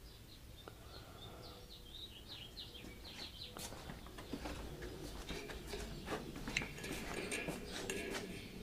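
Faint bird chirping: a quick run of short high chirps in the first few seconds, with scattered clicks and knocks of handling through the rest.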